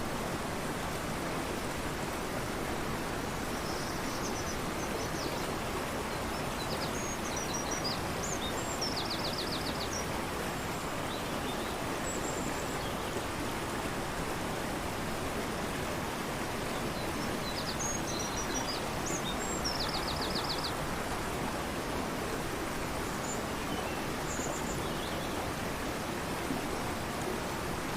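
Fast-flowing river rushing steadily, with a small songbird singing over it twice, each song a few high notes ending in a rapid trill.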